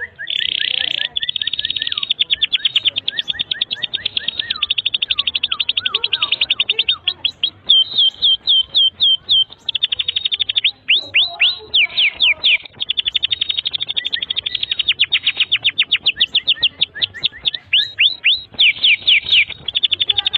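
Domestic canary singing a long, continuous song of very fast, high trills and rapid repeated notes, broken by short runs of swooping notes, with fainter, lower swooping whistles under the first part. The song is nonstop, the 'gacor' singing used as master song for teaching young canaries.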